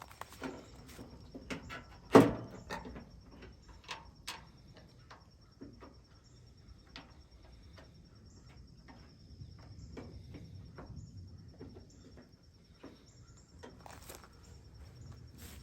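Scattered clicks and knocks of hand tools and small metal parts being handled, with one loud knock about two seconds in. A faint steady high whine runs underneath.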